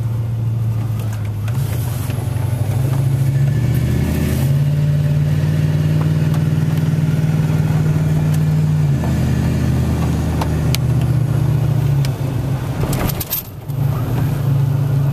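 Vehicle engine and road noise heard from inside the cabin while driving. The engine's low drone steps up in pitch about four seconds in, drops back about nine seconds in, and rises again after a brief dip in loudness near the end.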